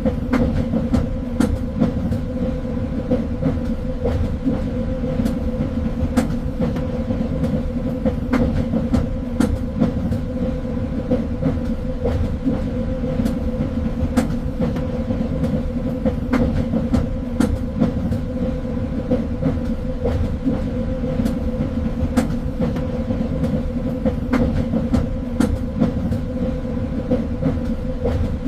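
Train running along the track: a steady rumble and hum, with irregular sharp clicks from the wheels and rails.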